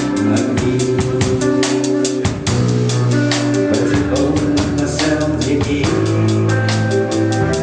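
Rock band playing an instrumental passage: a drum kit keeps a steady beat under guitar and bass.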